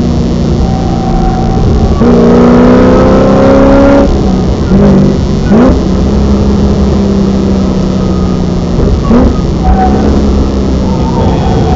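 Supercharged V8 of a Holden VE SS Sportwagon heard from inside the cabin on a race track. The engine pulls with rising pitch for about two seconds, then drops back to a steadier, lower tone with two short revving blips, and climbs again near the end.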